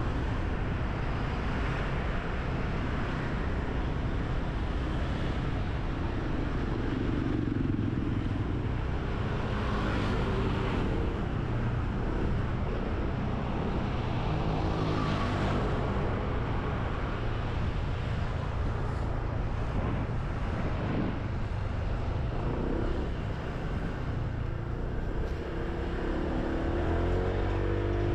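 Motorbike running along a road at speed, its engine under a steady rumble of wind and road noise; the engine note climbs near the end as it speeds up.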